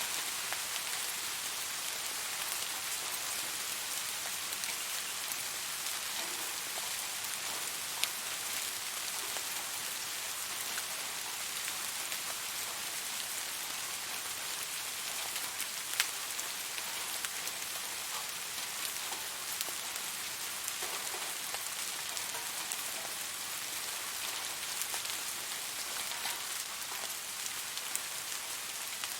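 Steady rain falling, a constant hiss with scattered individual drop ticks; a couple of sharper single drips stand out about 8 and 16 seconds in.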